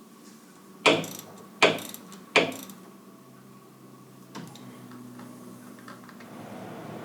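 Three sharp knocks about three-quarters of a second apart from hand-tool work on a skid steer's hydraulic parts, then a fainter knock and light clicking.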